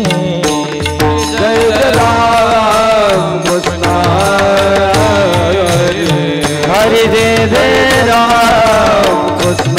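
Devotional kirtan music: voices singing a melismatic line, with pakhawaj (mridang) and tabla keeping a steady drum rhythm.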